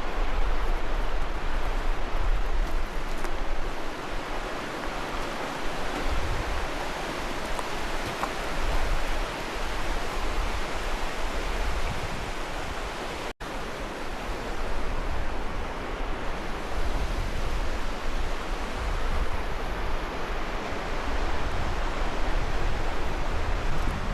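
Rushing mountain river: a loud, steady roar of churning water with a deep rumble beneath it. The sound cuts out for an instant a little past halfway, then carries on unchanged.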